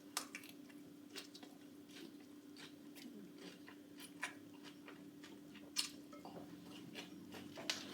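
A person chewing food, with faint scattered crunches and clicks over a steady low hum.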